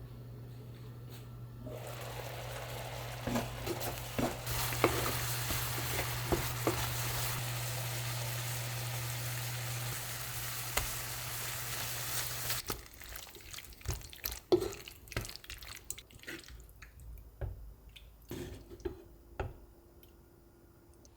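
Food sizzling in a hot cast iron frying pan while it is stirred, with clinks of the utensil, over a steady low hum. The sizzle and hum cut off suddenly about twelve seconds in, leaving quieter scattered clinks and scrapes.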